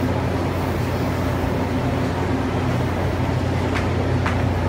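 Steady low hum of a stopped electric commuter train's onboard equipment, heard beside and inside the train, with two faint clicks near the end.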